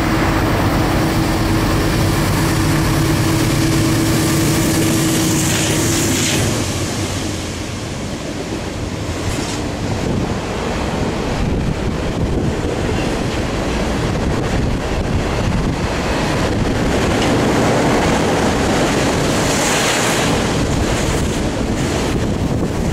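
Norfolk Southern double-stack intermodal freight train passing close by. For about the first six seconds the lead locomotive's steady drone is heard as it comes under. After that the drone stops, and the rolling rumble and clatter of the container cars' wheels on the rails carries on.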